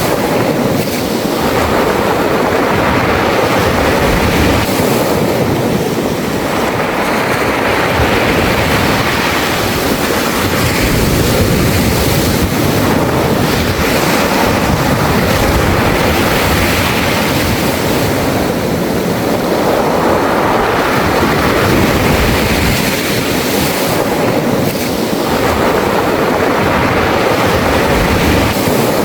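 Sea waves washing in and out over a beach of smooth round pebbles (mongdol), the surf rising and falling every several seconds with the rushing, rattling wash of water through the stones.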